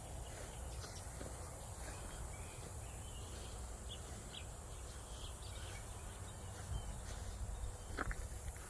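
Quiet outdoor ambience: a steady low rumble with a few faint, short bird chirps scattered through it.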